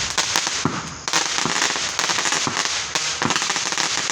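Fireworks going off in a dense, continuous crackle of rapid pops, with a brief lull about a second in before the crackling picks up again.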